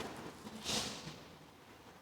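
A congregation settling into the pews: a general rustle and shuffle fading away, with a short soft hiss about a second in.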